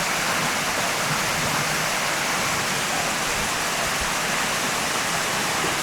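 Rushing water, a steady, loud, even rush with no change in level.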